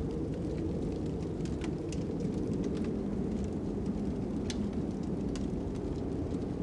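Steady low rush of wind with a fire crackling, giving scattered sharp pops on top of it.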